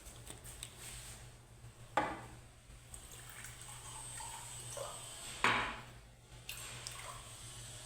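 Dishes being washed by hand: plates and cutlery clinking, with two sharper clatters about two and five and a half seconds in, over a faint sound of water.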